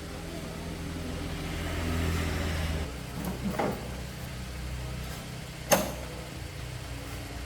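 A motor running steadily with a low hum that swells for a couple of seconds and then drops. There are a few light knocks, then one sharp click just after the middle.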